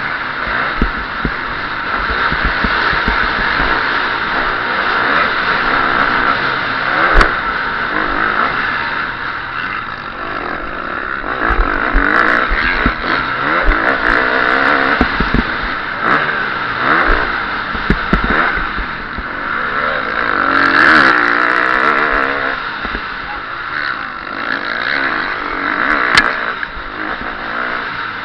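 KTM 350 SX-F single-cylinder four-stroke motocross engine picked up close by an onboard microphone, revving up and falling back over and over as the bike is ridden through the track, with a steady rush of noise under it. A couple of sharp knocks stand out, one about seven seconds in and one near the end.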